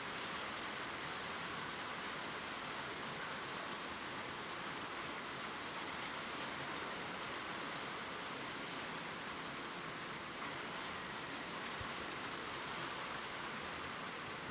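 Steady gentle rain falling on leaves, an even hiss with a few faint drop ticks.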